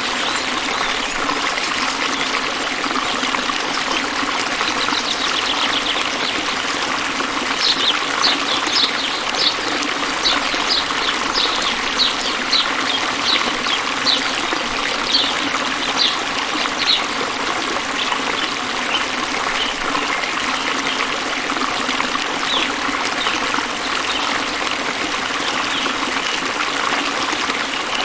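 A stream running and trickling steadily. From about eight seconds in, a string of short, high chirps repeats roughly twice a second for about ten seconds, then a few more follow.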